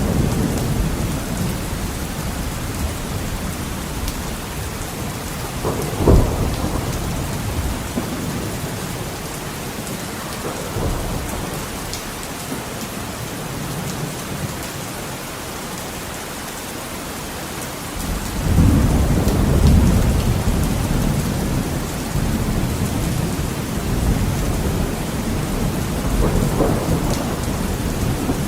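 Heavy rain falling steadily on a window glass, with thunder: a sharp crack about six seconds in, then a long low rumble of thunder building about two-thirds of the way through and a softer roll near the end.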